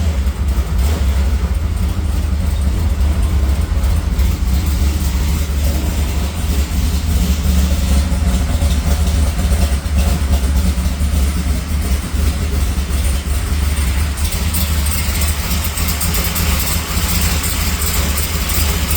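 Pro Street hot rod's aluminum-block 350 V8 idling with a steady low rumble; extra hiss joins in the last few seconds.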